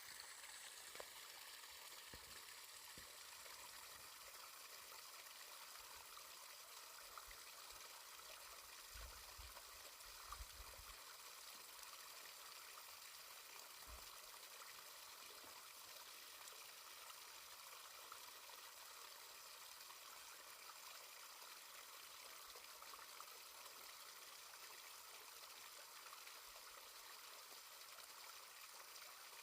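Near silence with a faint, steady hiss of running water and a few soft low thumps near the middle.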